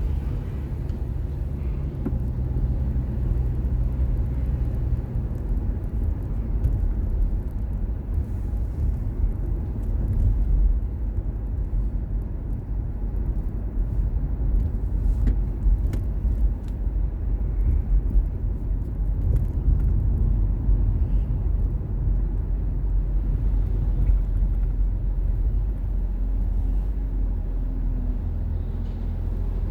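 Car driving on a road: a steady low rumble of engine and tyre noise, with a few faint clicks.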